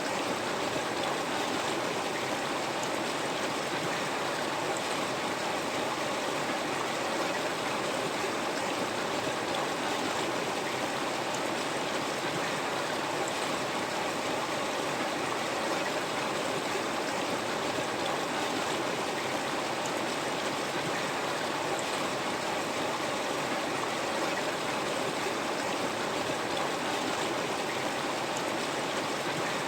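River water flowing, a steady, even wash of water noise with no breaks or changes.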